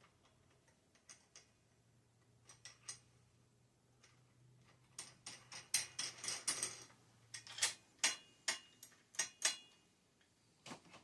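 Light metallic clicks and ticks of a headset cup press's parts being handled and fitted together on the bicycle frame. There are a few scattered clicks at first, then a busier run of clicking about halfway through.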